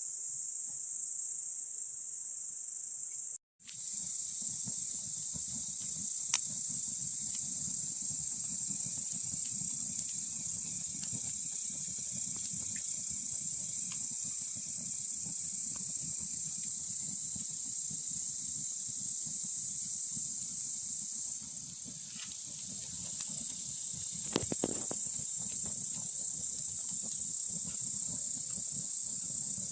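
Steady high-pitched chirring of crickets over a campfire burning with a low crackle and hiss, with a few sharper pops. The sound drops out completely for a moment about three and a half seconds in.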